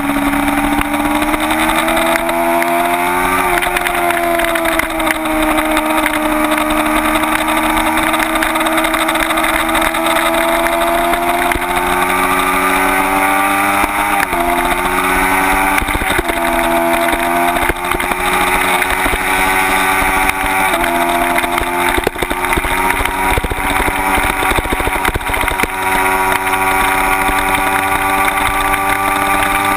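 Kawasaki Ninja 250's parallel-twin engine running hard at track pace, heard onboard with wind noise over the microphone. Its pitch rises and falls through the corners, with sudden steps in pitch about halfway and two-thirds through from gear changes.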